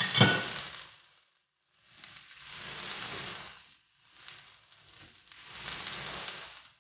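Chicken breasts frying in oil in a skillet, sizzling in swells that come and go with short quiet gaps between them. A sharp knock sounds right at the start, the loudest moment.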